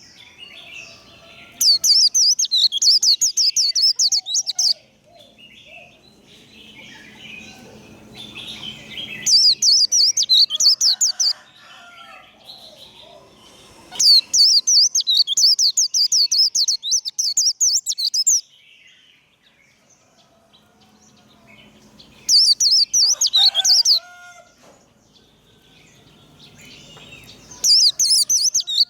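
White-eye (vành khuyên) singing its rapid 'líu' chatter song: five loud bursts of very fast, high-pitched warbling notes, each a couple to four seconds long, with softer chirps between them.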